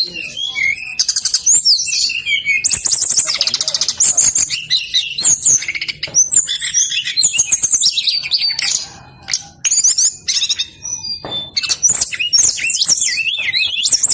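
Brown-chested jungle flycatcher (sikatan rimba dada coklat) singing insistently: rapid, high-pitched twittering and trilling phrases, packed close together, with a short lull about nine seconds in before the song picks up again.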